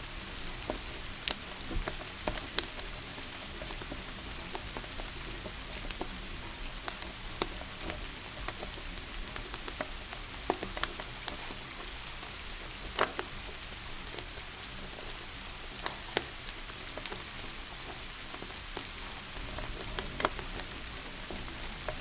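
Steady rain hiss with irregular sharp crackles and pops from a wood fire, a few of them louder.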